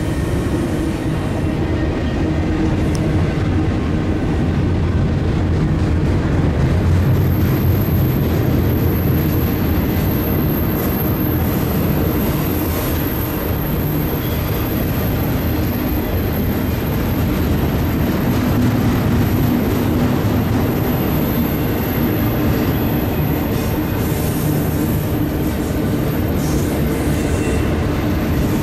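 Union Pacific freight train rolling past, a steady loud rumble of wheels on rail. A thin high-pitched wheel squeal sets in about seven seconds in and holds until near the end.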